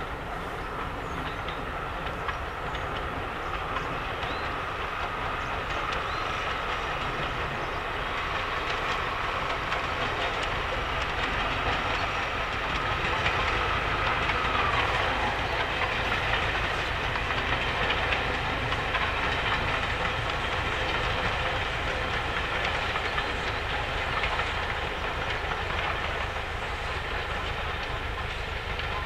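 Heritage passenger train, top-and-tailed by Bulleid Battle of Britain Pacific steam locomotive 34053 and Class 73 electro-diesel 73140, running past. Its wheels make a steady rumble on the rails that grows a little louder toward the middle, then eases.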